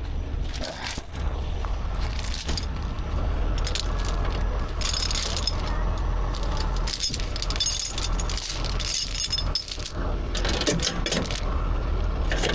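Repeated metallic clinking and jangling, many short clinks coming in clusters, over a steady low rumble.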